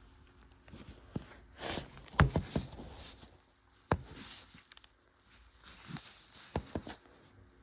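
Handling noises of objects being moved and set down: scattered knocks and clicks with some rustling, the loudest cluster about two seconds in, a single sharp knock a couple of seconds later and two more near the end.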